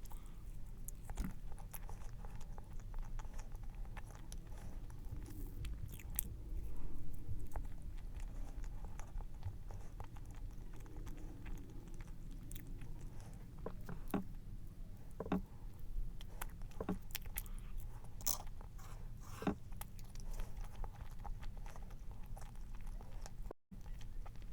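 Close-miked eating of cake: chewing and biting with soft crunches and occasional sharp clicks. The sound cuts out for an instant near the end.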